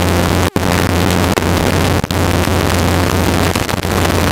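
Helicopter cockpit noise: the engine and rotor running steadily, heard as a loud hiss over a strong low hum, dropping out very briefly about half a second in and again about two seconds in.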